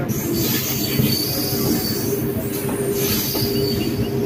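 A train running on the rails: a steady rumble and hum with a thin, high-pitched wheel squeal.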